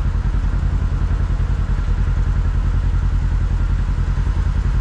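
Kawasaki KRX side-by-side's engine running steadily under load as it crawls up a steep, slick trail section, with a low, rapid, even pulsing.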